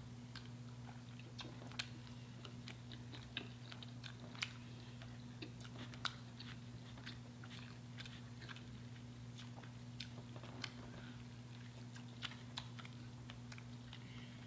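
Someone chewing and biting crispy fried chicken close to the microphone, with many short, sharp crunches scattered throughout, over a steady low hum.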